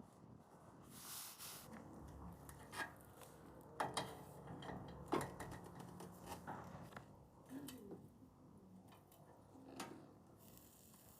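A few faint, scattered clicks and knocks of small objects being handled, the loudest about four and five seconds in.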